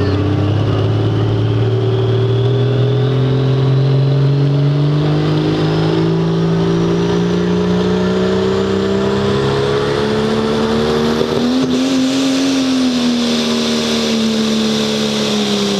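A pulling vehicle's engine running hard under load. Its pitch climbs slowly for about twelve seconds, wavers at the top, then drops near the end as it comes off the power.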